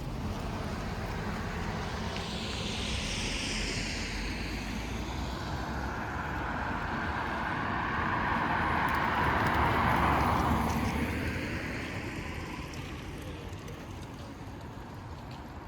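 A vehicle going by: a rushing noise that builds, peaks about ten seconds in, then fades away.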